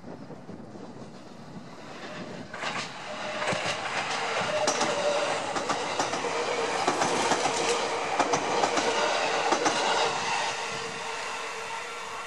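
JR East 651 series electric multiple unit rolling close past, its wheels clicking over the rail joints with a steady whine. It builds up a couple of seconds in, is loudest in the middle and fades near the end.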